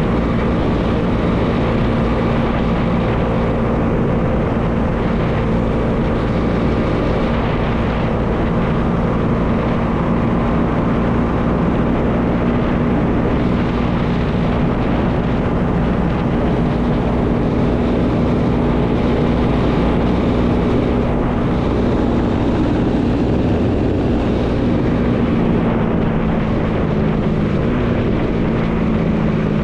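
Bajaj Dominar 400's single-cylinder engine running at a steady cruising pitch, its note dropping slightly near the end as it eases off. Wind rushes over the microphone throughout.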